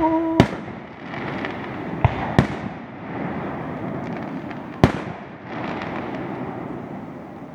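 Fireworks display: a whistling firework's steady whistle cuts off in a sharp bang about half a second in. Further sharp bangs follow about 2, 2.4 and 5 seconds in, over a continuous crackle and rumble of shells bursting.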